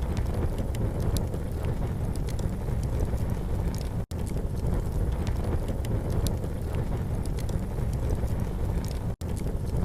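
Campfire burning: scattered sharp crackles and pops over a steady low rumble. The sound cuts out for an instant about four seconds in and again near the end.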